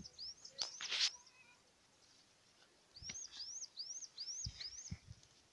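A bird calling a series of short, high chirps, each rising and then dropping in pitch: a few in the first second, then a run of about six evenly spaced chirps starting about three seconds in. Two soft low thumps near the end.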